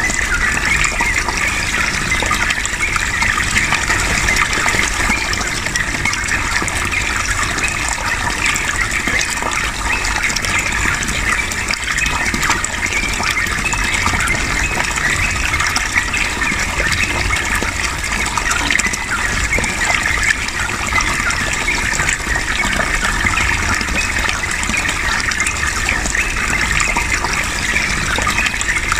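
Running water flowing steadily, a continuous gushing hiss.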